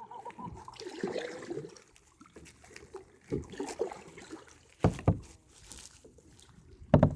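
Kayak on the water: light trickling and sloshing, with a few sharp knocks, two close together about five seconds in and one near the end.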